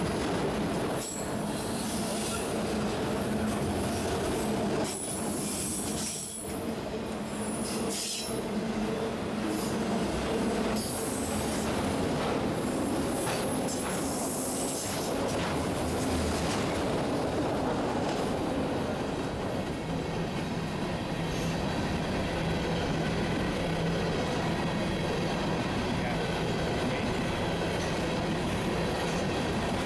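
Freight train of autorack cars, then open-top coal gondolas, rolling past close by. It makes a continuous rumble of steel wheels on rail, with bouts of high-pitched wheel squeal through the first half that settle into a steadier roll after about halfway.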